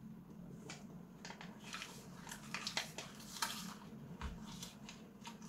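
A person chewing and biting a rolled wad of printed paper: a run of irregular crackling mouth clicks, thickest in the middle, over a low steady hum.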